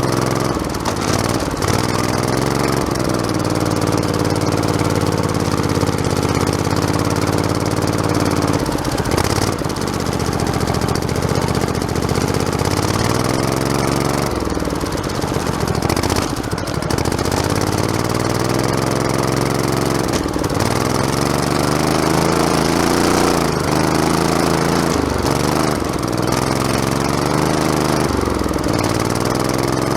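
Modified lawn tractor's small engine running under way, its pitch rising and falling several times as the throttle and load change, with rattling and clatter from the machine.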